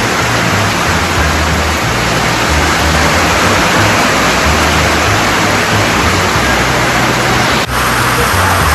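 Heavy rain pouring down, a loud steady hiss, with a brief drop about three-quarters of the way through.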